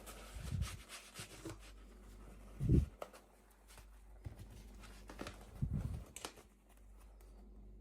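Hands unboxing a toy, handling the packaging: light rustling and crinkling with small clicks, and a few dull thumps, the loudest about a third of the way in.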